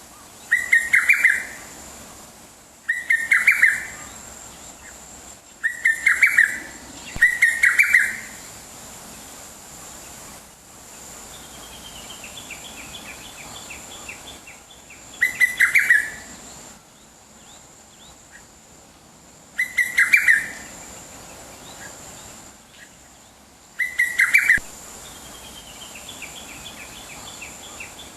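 Wild birds calling: a loud burst of rapid chirping notes every few seconds, about seven times, with a softer descending trill twice between the bursts.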